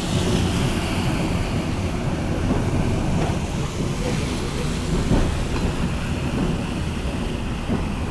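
A St. Charles line streetcar running along its rails with a steady low rumble of wheels and running gear, and a few scattered clicks from the wheels passing over rail joints.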